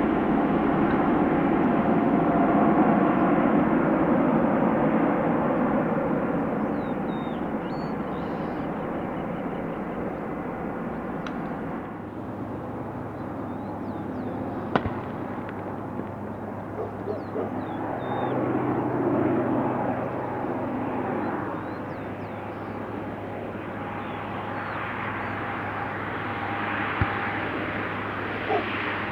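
Aircraft engine noise, loud at first and fading away over the first several seconds, leaving a low steady hum with a few faint high chirps. The engine noise builds again near the end.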